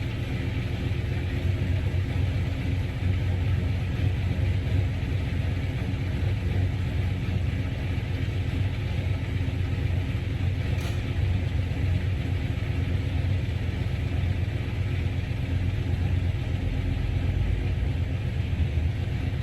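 Mopar car's engine idling steadily with a deep, even rumble.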